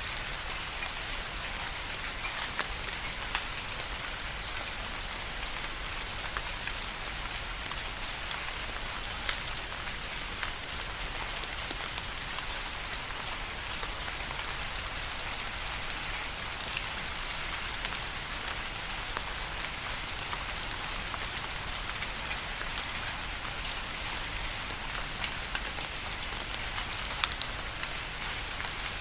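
Steady rain: an even hiss with many separate drops standing out as sharp ticks.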